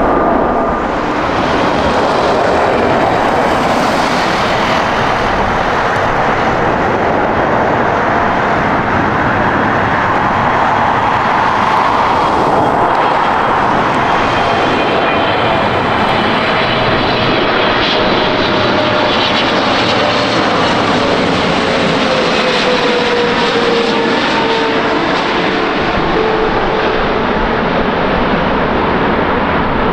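Jet airliner's engines at close range: a loud, steady rush of jet noise with faint whining tones, one of which slowly falls in pitch over the second half.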